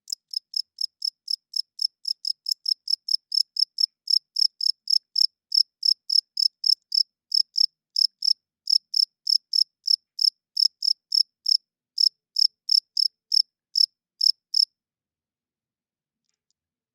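Cricket chirping: a steady run of short, high-pitched chirps, about three a second at first and a little slower later, that stops a couple of seconds before the end. The song comes from a male rubbing his wings together.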